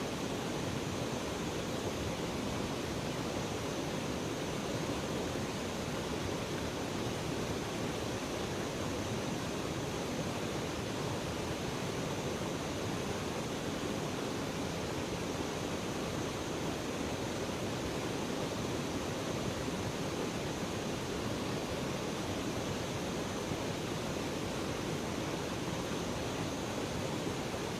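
River water rushing, a steady even noise that holds unchanged throughout.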